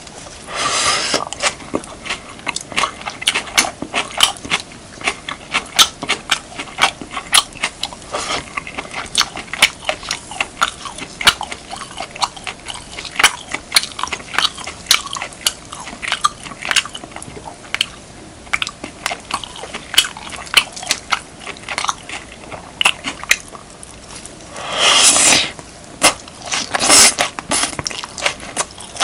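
Close-miked eating sounds of beef, kimchi and rice: a dense run of sharp, crunchy chewing clicks, with longer bursts about a second in and twice near the end.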